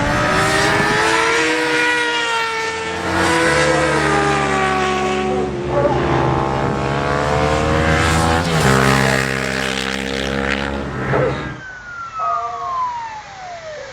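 Racing motorcycle engines at high revs, accelerating with the pitch climbing and then stepping down at gear changes, about twice. Near the end the loud running stops and one bike passing away is heard, its pitch falling.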